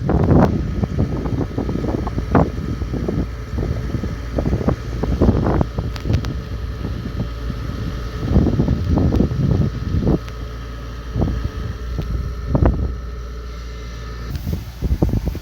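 Kubota DC70 Pro combine harvester running steadily while harvesting rice, with irregular knocks and rattles over a low engine drone and a thin steady whine that stops about a second before the end.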